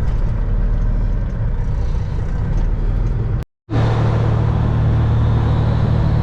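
Semi truck's diesel engine and road noise heard from inside the cab, a steady low drone. The sound cuts out for a moment about three and a half seconds in, and after that the engine drone is louder with a stronger hum.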